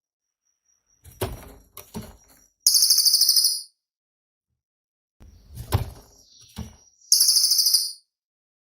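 Cililin bird singing the same phrase twice. Each phrase is a thin high whistle broken by a few sharp clicks, ending in a loud, very fast buzzy trill about a second long.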